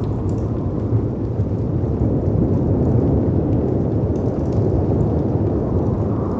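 Steady low rumble of storm wind and crashing sea waves, with faint crackles of a fireplace scattered through it.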